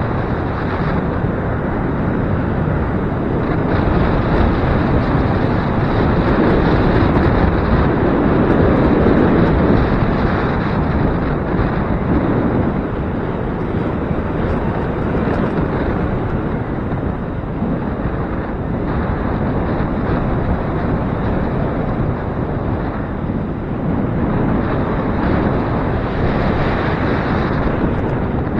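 Gusty wind blowing over the microphone: a loud, steady, rumbling rush that swells for a few seconds and then eases.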